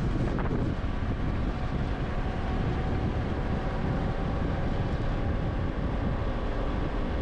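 Steady road and engine rumble from a vehicle on the move, with wind buffeting the microphone.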